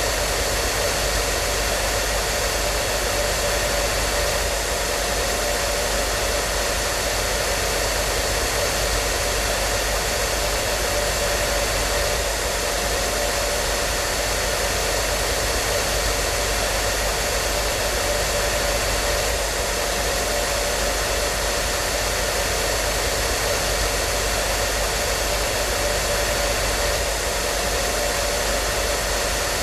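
Hair dryer running steadily: a constant whooshing hiss of blown air with a faint motor hum, unchanging throughout.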